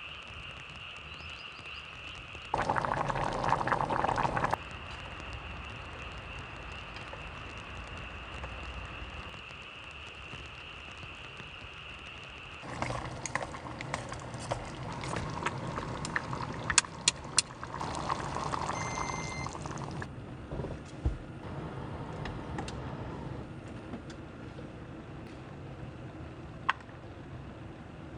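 Liquid pouring in two short spells, about three seconds in and again near eighteen seconds, against a steady high whine that stops about twelve seconds in. From there on come scattered sharp clicks and knocks of objects being handled.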